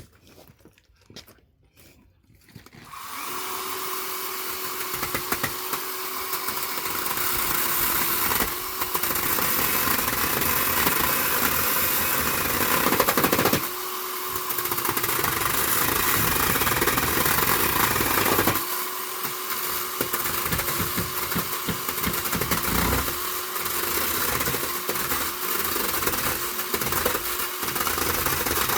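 A power drill driving long wood screws into pallet timber on its strongest setting, the screws going in stiffly. It starts about three seconds in and runs in long pulls with brief stops, then in short repeated bursts near the end as the screws seat.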